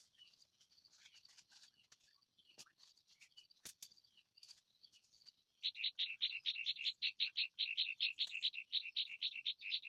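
Faint scattered chirping and a few clicks, then, about halfway through, a much louder animal call starts: a rapid, regular train of short high-pitched pulses, about five or six a second, which keeps going.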